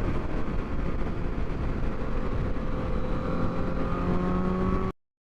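Steady road and engine noise of a car being driven. A faint engine tone rises slightly over the last couple of seconds, and the sound cuts off abruptly just before the end.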